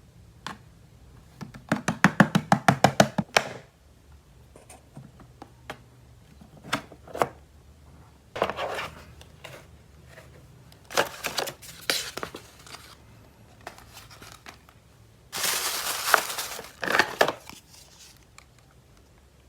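Plastic toys and their packaging being handled: a quick rattling run of about ten clicks a second near the start, then several bursts of crinkling plastic with a few knocks.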